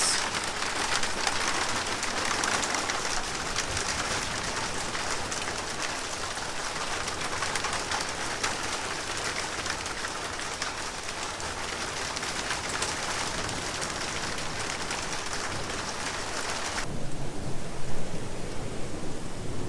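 Heavy rain with some pea-sized hail falling on a metal roof: a dense, steady hiss of fine ticks. About seventeen seconds in it cuts abruptly to quieter rain with a low rumble underneath.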